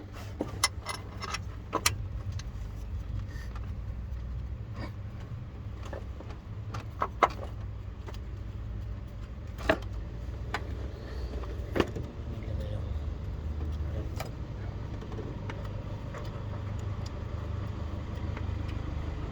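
Metal hand tools clinking and knocking at irregular intervals during work on a car's starter motor, over a steady low hum.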